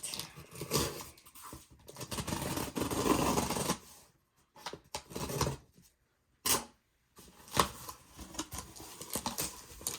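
Cardboard box being opened by hand: flaps pulled apart and cardboard scraping and rustling, with a few sharp cracks of the cardboard in the second half.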